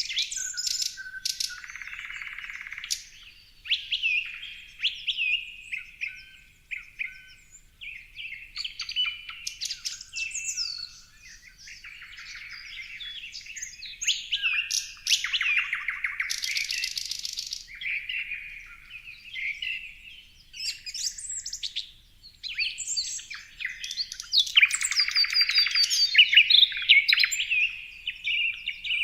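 Several birds chirping and singing over one another: quick whistled notes, trills and chirps, with a few harsher buzzy rattles now and then.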